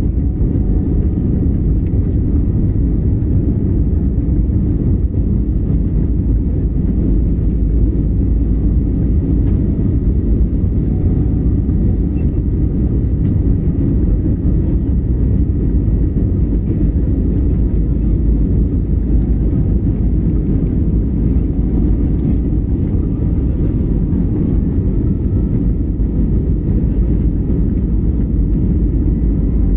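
Airliner during takeoff: a loud, steady, deep rumble of jet engine and airflow noise.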